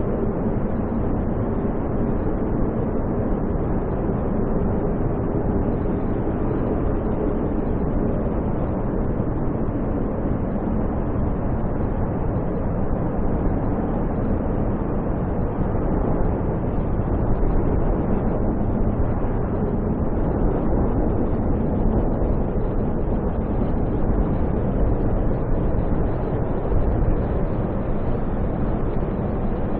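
Strong snowstorm wind blowing steadily, a dense rushing noise with a faint low wavering tone in it.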